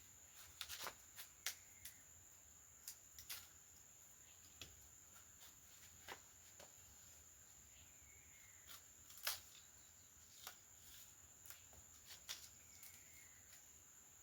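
Near silence: a steady faint high-pitched tone, with scattered light clicks and taps and a couple of faint short chirps.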